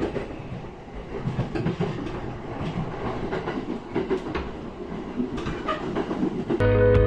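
Train running on the rails: a steady low rumble with scattered sharp clicks and clacks. Guitar music starts suddenly near the end and is louder than the train.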